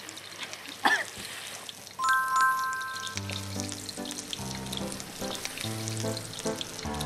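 Oil sizzling and crackling in a wok as shredded potatoes stir-fry. About two seconds in a short electronic chime sounds, and background music with a steady bass line comes in just after.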